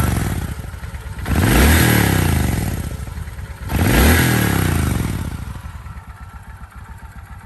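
1987 Kawasaki Vulcan 1500's water-cooled four-stroke V-twin engine blipped twice on the throttle, each rev rising and falling back, then settling to a steady idle. It is an engine in good running order.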